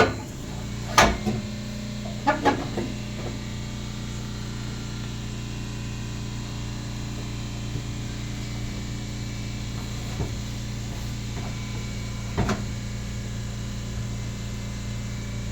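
A steady low machine hum starts and runs on, with a few sharp knocks of metal parts and tools during muffler-hanger work: a loud one at the start, a few in the first three seconds and one about twelve seconds in.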